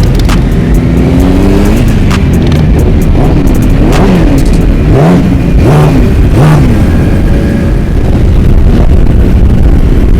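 Several motorcycle and dirtbike engines revving up and down over a steady low rumble of traffic, with a few sharp rev rises and falls around the middle.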